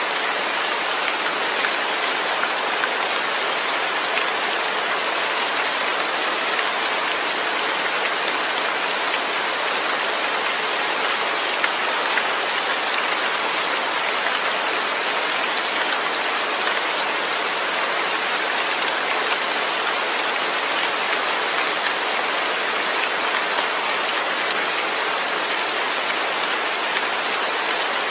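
Steady rain falling: an even hiss of many fine drops, with no thunder.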